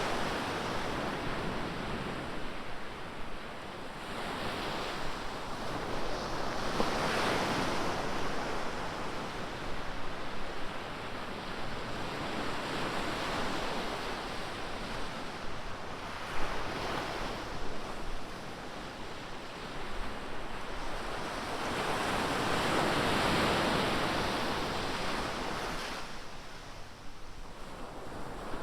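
Ocean surf: waves breaking and washing up the beach, the rush swelling and easing every few seconds, with some wind on the microphone.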